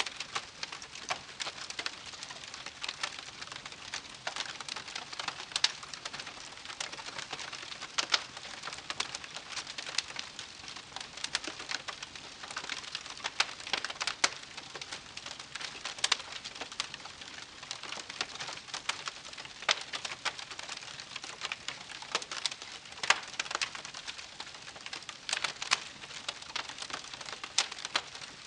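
Wood campfire crackling, with frequent sharp pops and snaps over a soft hiss of burning.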